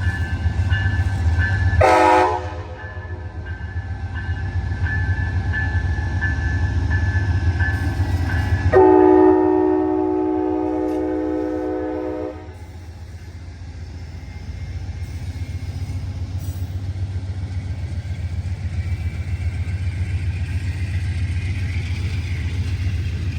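Horn of the departing Amtrak train's lead ALC-42 Charger locomotive: a short multi-note blast about two seconds in and a long blast of nearly four seconds in the middle. Underneath, the steady low rumble of the train's diesel locomotives and cars moving along the track.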